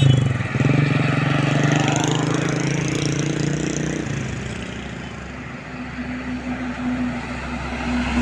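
Heavy truck engine running as the truck passes, loudest at the start and fading after about four seconds; a second engine's steady hum comes in near the end.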